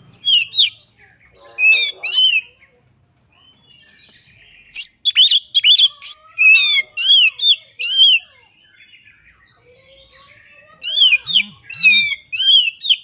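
Oriental magpie-robin (kacer) singing loudly in bursts of rapid, repeated arching whistled notes, with short pauses between the phrases. This is the vigorous 'gacor' song, with mimicked notes worked in.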